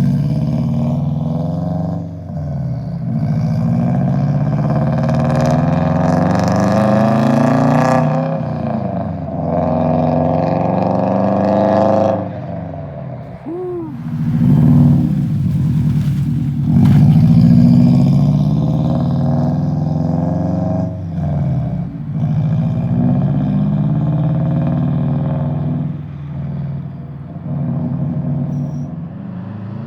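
Subaru WRX's turbocharged flat-four, fitted with an aftermarket eBay exhaust, accelerating through the gears. The exhaust note climbs steadily for a few seconds and drops at each shift, several times over.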